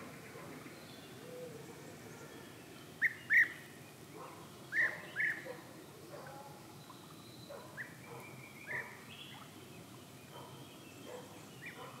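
Birds calling: short, sharp chirps, the loudest coming in two quick pairs about three and five seconds in, with fainter calls scattered through the rest.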